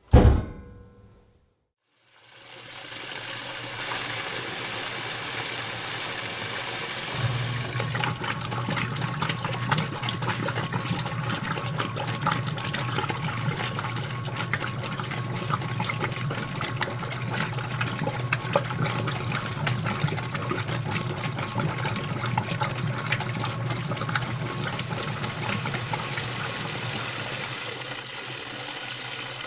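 Washing machine filling with water: a short, loud ringing sound at the start, then a steady rush of incoming water. About seven seconds in, a low machine hum with crackling joins, and it stops shortly before the end while the water keeps running.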